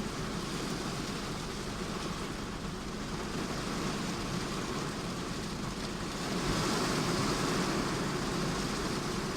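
Steady rain falling in a summer storm: an even rushing hiss that grows a little louder about six and a half seconds in.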